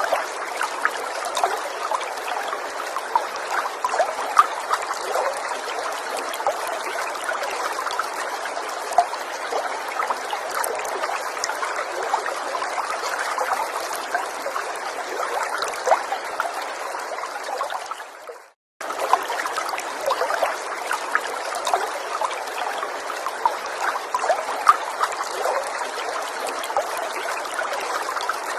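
A small stream trickling and babbling steadily over stones, full of small splashes and bubbling. The flow drops out into a brief silence about two-thirds of the way through, then starts again at once, the seam of a looped recording.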